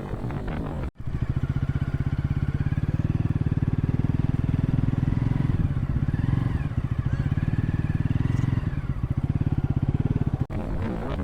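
Motorcycle engine running steadily with a rapid low throb. It starts abruptly about a second in, after a brief stretch of background music, and cuts off shortly before the end.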